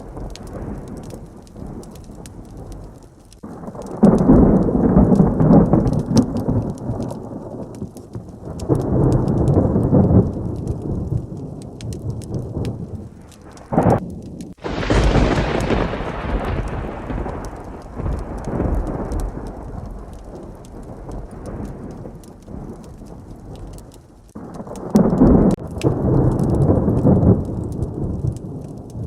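Heavy rain with thunder: several low rolling rumbles, and a sharp, close thunderclap about halfway through that dies away over a few seconds.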